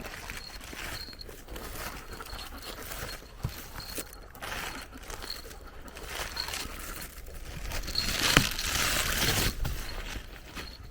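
Footsteps on a forest floor: irregular steps, with a louder scuffing, rustling stretch about eight seconds in.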